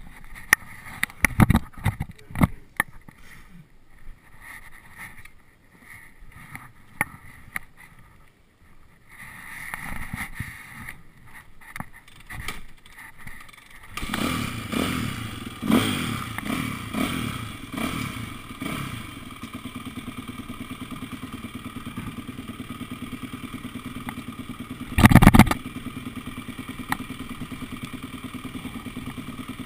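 Motocross motorcycle being started: clattering and knocks, then the engine catches about halfway through. It is revved a few times and settles to a steady idle, with one loud burst near the end.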